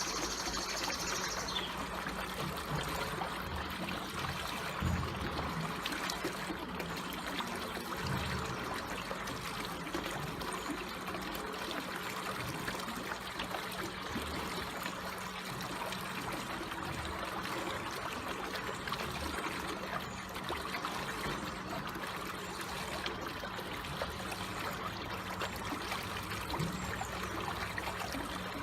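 Water trickling and flowing steadily and gently, with a faint steady low hum underneath.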